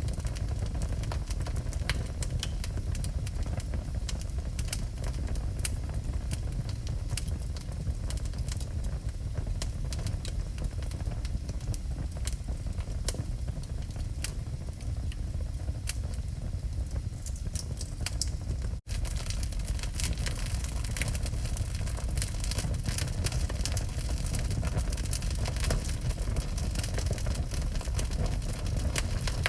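Wood fire crackling in a fireplace: scattered sharp pops and snaps over a steady low rumble. The sound drops out for an instant about two-thirds of the way through.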